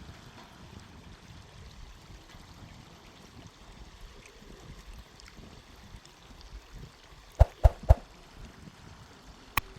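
Flowing water, a steady low rush, broken by three sharp knocks in quick succession about seven and a half seconds in and one more just before the end.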